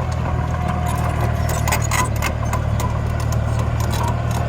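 Miniature construction machine running with a steady low engine-like drone, with scattered clicks and scraping as soil and stones are pushed.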